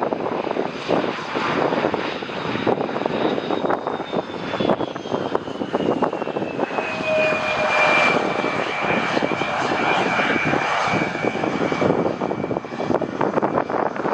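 Jet airliner on landing approach passing the observer. The engines make a steady rushing noise, and their high whine falls in pitch about halfway through as the aircraft goes by, then levels off.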